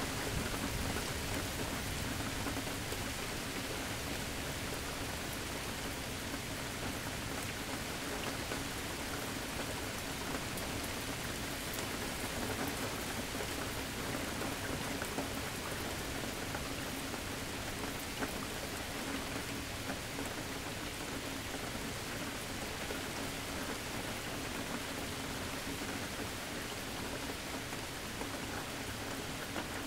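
Steady rain falling, with scattered sharp drop ticks. A low rumble of thunder is dying away in the first few seconds.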